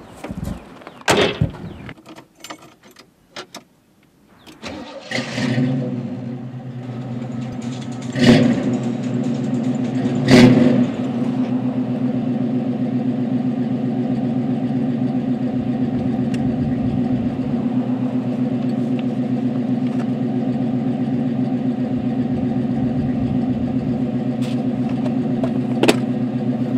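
A 1979 Chevrolet's engine cranks and catches about five seconds in, then idles steadily. Before it, a car door shuts and there are a few clicks. During the idle there are two sharp knocks, about eight and ten seconds in.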